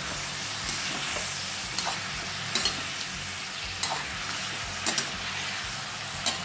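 Zucchini chunks sizzling in a frying pan while a spatula stirs them, the spatula clicking and scraping against the pan about once a second over a steady frying hiss.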